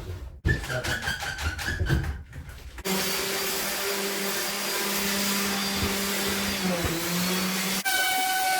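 A power tool's motor running at a steady pitch, in short clips with sudden cuts between them. The first clip has uneven knocks, and the last is a higher-pitched whine starting near the end.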